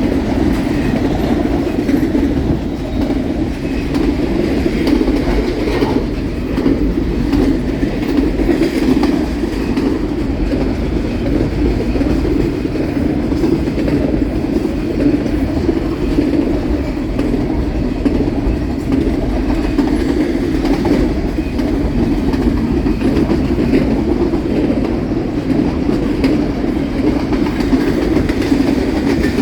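Intermodal freight train passing at speed: a long string of cars rolling by, a steady, unbroken noise of wheels on rail with faint clicks.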